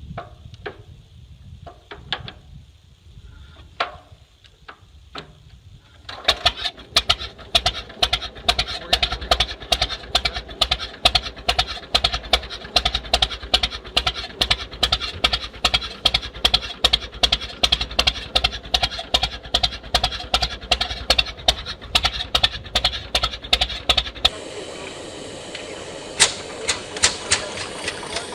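An old tractor engine starts about six seconds in and runs with slow, regular, sharply separated firing beats, about three a second. Near the end the sound changes abruptly to a steadier, quieter running hum.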